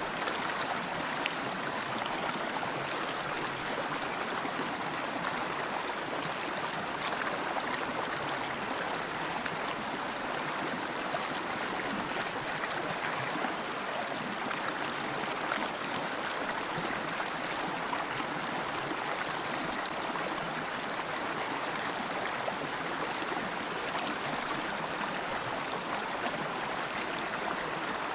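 River water flowing steadily over stones, an even rushing and burbling with small splashes.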